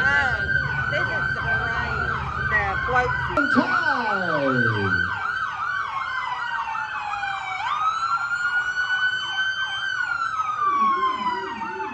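Several police car sirens sounding at once: one in a slow wail that climbs and falls, another in a fast repeating yelp, and one winding down in pitch about four seconds in, over a low vehicle rumble at the start.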